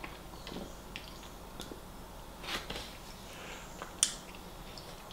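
Close-up mouth sounds of someone chewing a soft chip, bean and mushroom sandwich: scattered small wet clicks and smacks, with a sharp click about four seconds in, the loudest sound.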